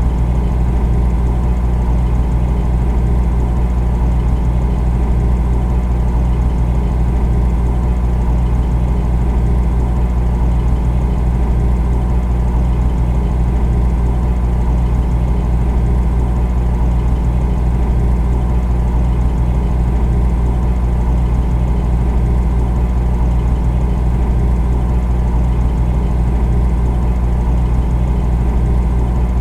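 Refrigerator compressor running with a steady, deep electrical hum, unchanging throughout.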